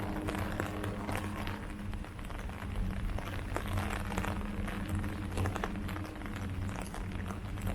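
Rain falling on leaves: many separate drop hits over a soft hiss, with a steady low hum underneath.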